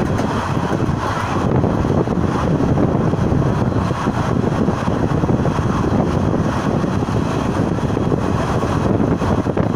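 Passenger train running at speed, heard from the open side of the coach: a loud, steady rumble of wheels on rail and rushing air, with wind blowing on the microphone.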